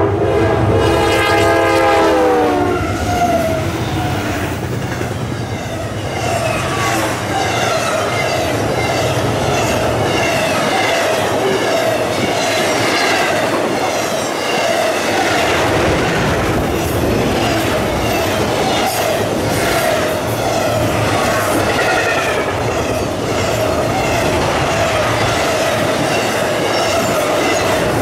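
A Norfolk Southern freight locomotive's air horn chord sounds as the train arrives, its pitch dropping and cutting off a couple of seconds in as the engines go by. Then the cars of an intermodal freight train, truck trailers on flatcars, roll past close by, their wheels clacking over the rail joints with repeated squeals.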